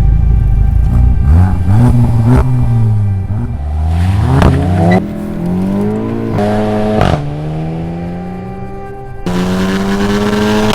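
Volkswagen Golf GTI MK7 engine through an Akrapovic Evolution titanium exhaust, revving: its pitch climbs and falls several times, with sudden steps in pitch and loudness partway through.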